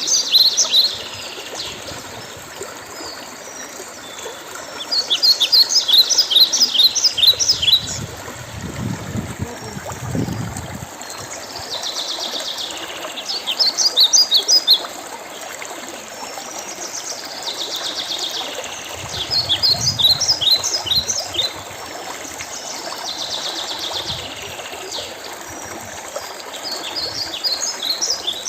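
A small songbird singing bursts of rapid, high chirping notes, repeating every few seconds, over the steady trickle of running water.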